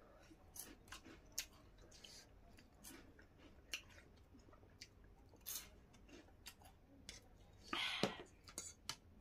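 Faint eating sounds: chewing, with scattered short soft clicks. A louder brief sound comes about eight seconds in.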